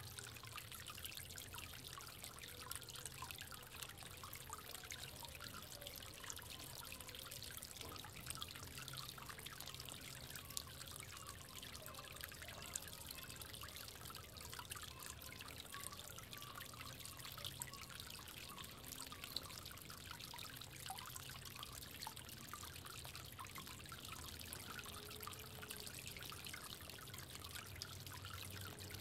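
Faint, steady trickling of water in a bird bath, with fine drips and small splashes throughout.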